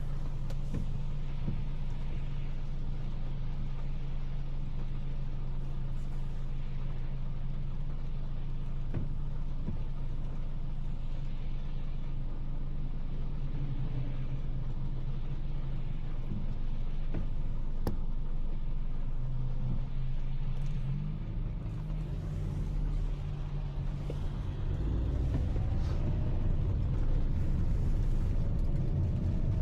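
A car driving: steady engine hum and road noise. The engine note rises briefly about 20 seconds in, and the low rumble grows louder near the end, with a gliding pitch as the car picks up speed.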